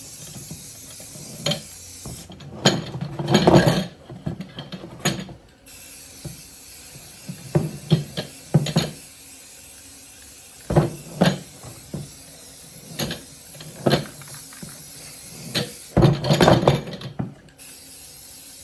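Small metal engine parts rattling and clattering as they are rolled around in a box, in irregular bursts of clicks and knocks, the busiest about three seconds in and again near the end.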